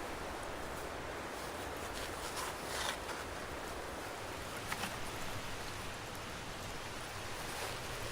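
Steady outdoor background noise like wind or running water, with a couple of faint clicks or snaps about three and five seconds in.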